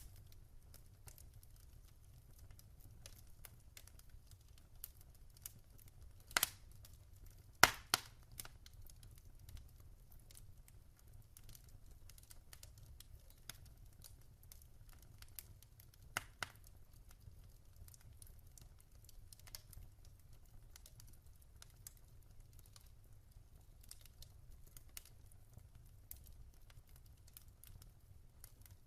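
Wood fire in a fireplace crackling: scattered small crackles with a few louder pops, about six and eight seconds in and again at about sixteen seconds, over a faint low rumble.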